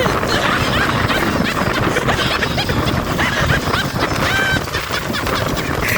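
Strong wind buffeting the microphone, with short high-pitched calls or cries breaking through it now and then.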